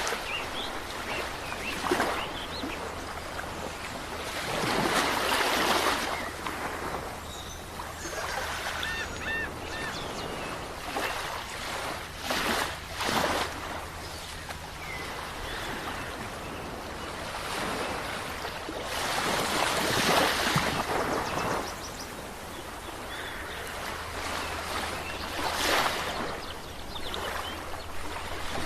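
Sea waves washing onto a shore, with a steady hiss of surf and louder surges as waves break every few seconds.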